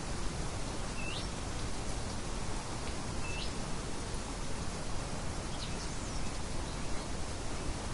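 Steady hiss of light wind with a few short, high bird chirps: two clearer ones about one and three seconds in, fainter ones later.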